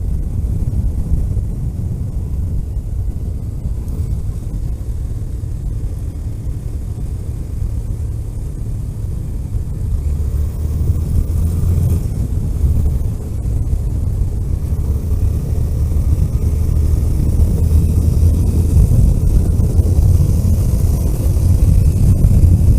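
Vehicle driving along a road: a steady low engine and road rumble that grows louder about halfway through, with a hiss of wind building near the end.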